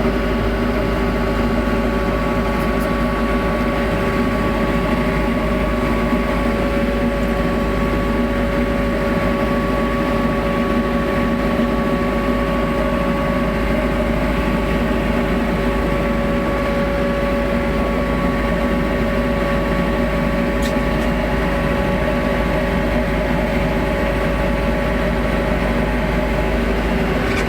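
TYM 574 tractor's diesel engine running at a steady speed, a constant drone that holds its pitch without revving up or down.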